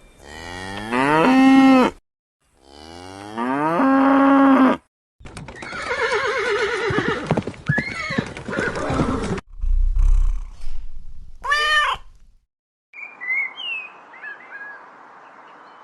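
Two drawn-out cattle moos, each about two seconds, then a run of other short animal calls, pitched and rough, ending in high chirps.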